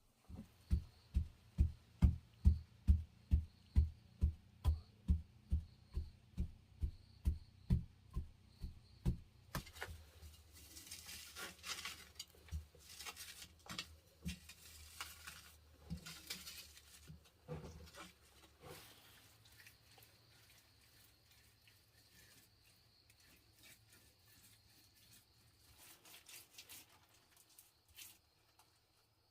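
Repeated dull blows, about three a second for some nine seconds, then scraping and rustling that fade to quieter handling noises.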